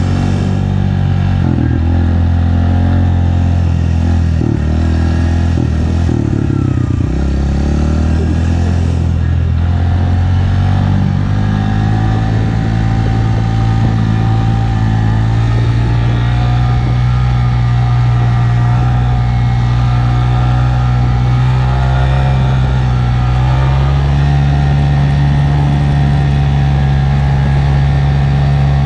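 Honda 125 cc motorcycle engine running: it holds a low, steady note, speeds up about seven to nine seconds in to a higher steady note, and steps up slightly again about five seconds before the end.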